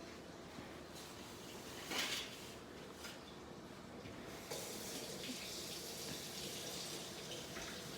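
Kitchen tap turned on and running faintly into the sink, starting a little past halfway; a brief louder noise comes about two seconds in.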